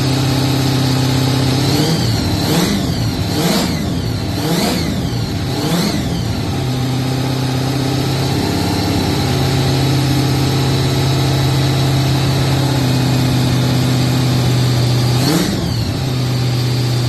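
Freshly rebuilt Holden 253 V8 running on its first start-up while the new cam and lifters are bedded in. It holds a steady speed, with the revs briefly rising and falling about five times a couple of seconds in and once more near the end.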